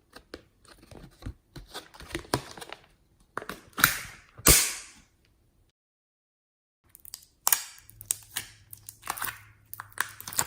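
Slime being worked by hand, with crackling clicks and sharp snapping pops of air pockets. The two loudest pops come close together about four seconds in. The sound breaks off for about a second, then the crackling starts again.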